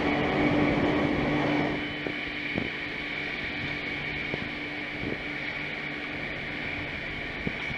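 Passenger train running, a steady rumble with a constant hum. The noise drops noticeably about two seconds in, and a few faint knocks come at uneven intervals.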